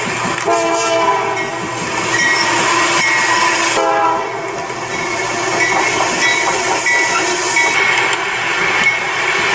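Road bridge vibrating and humming under passing traffic: several overlapping whining tones that shift in pitch over a steady rushing hiss, with an abrupt change about four seconds in.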